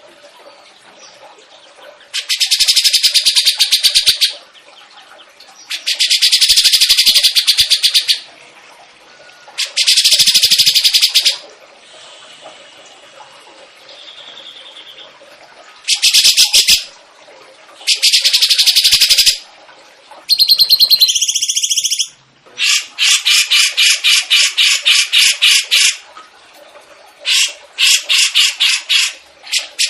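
A songbird singing in loud bursts of fast, rattling trills, each lasting about two seconds with short pauses between, and a few clearer whistled notes about two-thirds of the way through.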